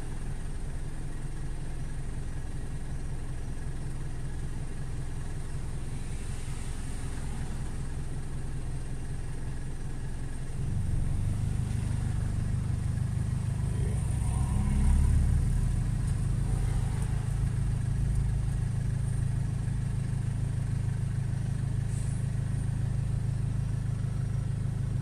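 Car engine idling, a steady low hum heard inside a car stopped in traffic; about ten seconds in the hum grows louder and stays so.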